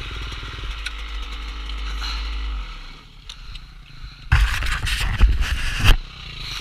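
Off-road motorcycle engine running, dropping away about three seconds in, then a loud, rough burst of noise lasting about a second and a half near the end.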